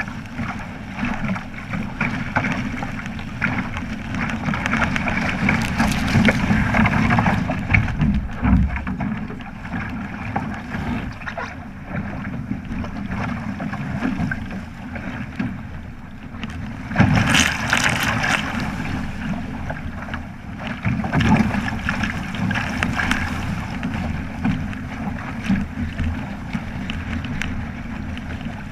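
Wind buffeting the microphone over a continuous rush and splash of water against a sailing boat's hull, with a louder splash about two-thirds of the way through.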